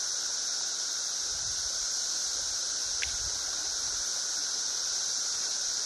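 Chorus of many cicadas: a steady, continuous high-pitched drone, with a single faint tick about three seconds in.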